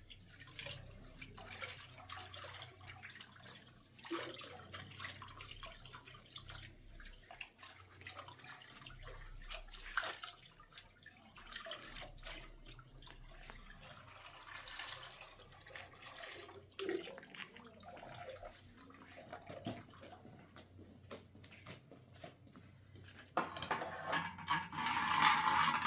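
Water being handled, splashing and trickling with scattered small knocks, as in washing by hand. Near the end a louder, steadier rush of water runs for a couple of seconds.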